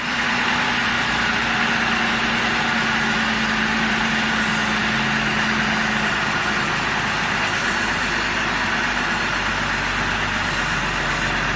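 Jeep Wrangler running, a steady engine and road noise with no distinct clicks standing out. Its hum shifts lower about halfway through.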